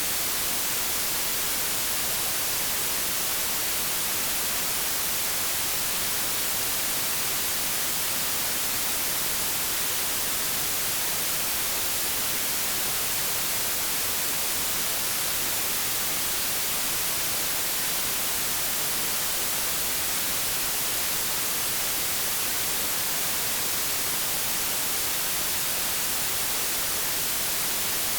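Steady white noise static, a constant hiss with its energy weighted toward the high end, unchanging throughout.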